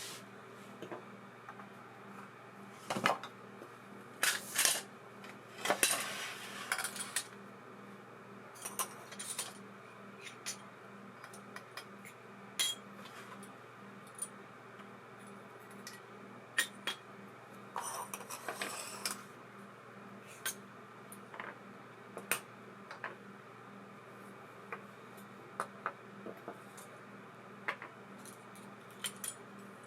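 Small metal parts of an ABU Ambassadeur 2500C baitcasting reel clicking and clinking as they are handled. The taps are scattered, with short clattery runs a few seconds in and again around the middle, over a faint steady hum.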